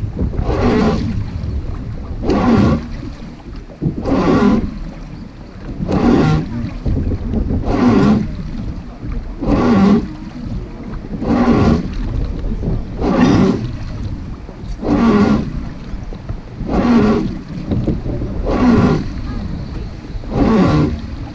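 Wooden oars of a Hozugawa river boat creaking in their fastenings with each rowing stroke: one drawn-out creak about every two seconds, steady and regular, over the low rush of the river.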